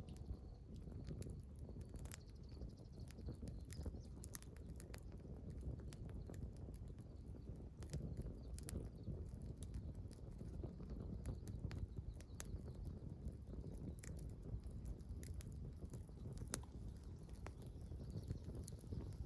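Small campfire crackling: irregular sharp pops and ticks over a steady low rumble.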